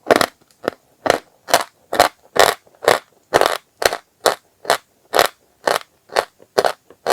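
Dry chalk being crunched, one crisp crackling crunch after another, about two a second in a steady rhythm.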